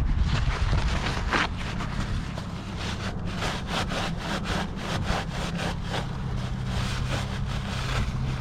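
Paper towel rubbing back and forth over a lubed motorcycle chain, wiping off excess chain lube in quick repeated strokes, about three a second.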